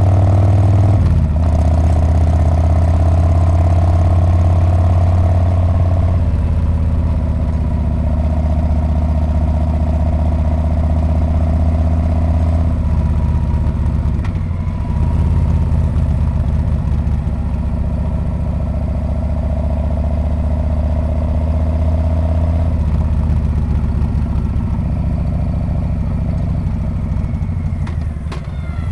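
Harley-Davidson Street Bob V-twin engine and exhaust running under way. The engine note steps to a different pitch several times, with a brief dip in level near the end.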